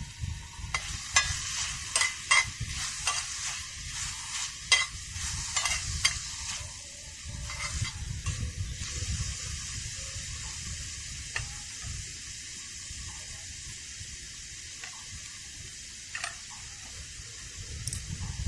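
Food sizzling in a pan, with a utensil scraping and clinking against the pan for the first several seconds as it is stirred; after that a steady sizzle goes on.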